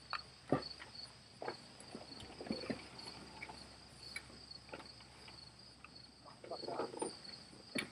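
Crickets chirping in a steady, even pulse, with scattered faint clicks and knocks of handling and footsteps.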